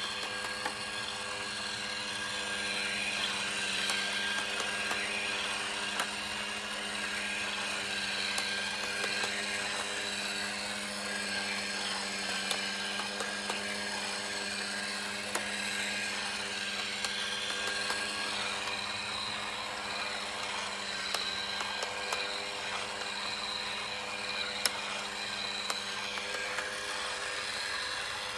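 Small electric motor of a plastic four-cylinder engine model running steadily: a constant whir from the motor and gearing turning the crankshaft and pistons, with scattered light plastic clicks.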